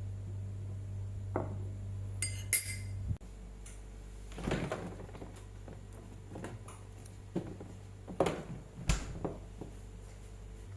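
Kitchen utensils and dishes knocking and clinking: a run of separate knocks, a couple of bright metallic clinks and a short scrape. A steady low hum underneath cuts off suddenly about three seconds in.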